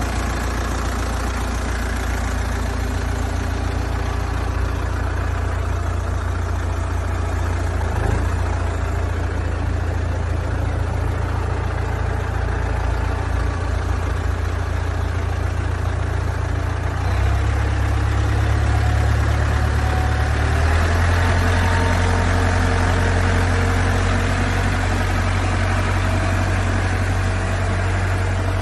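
Tractor diesel engine running steadily. Its note shifts slightly about 8 seconds in, jumps about 17 seconds in, and settles to a new steady pitch about 21 seconds in.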